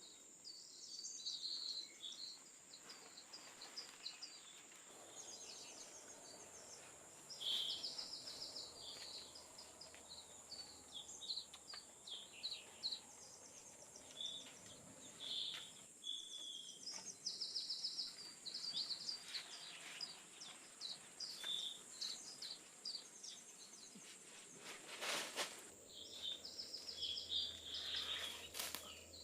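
Forest ambience: many small birds chirping and trilling in short repeated phrases over a steady high-pitched insect drone. A brief rustling swish comes about 25 seconds in.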